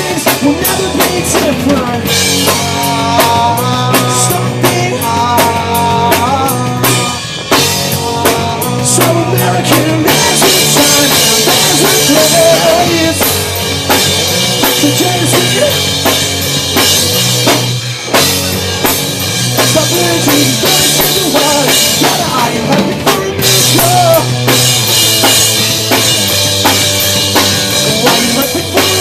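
Live band playing a song at full volume, the drum kit prominent with steady kick and snare hits under pitched instruments.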